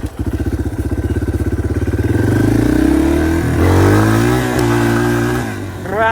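Dirt bike engine chugging at low revs, then revving up and easing off around the middle, with another quick rev-up near the end.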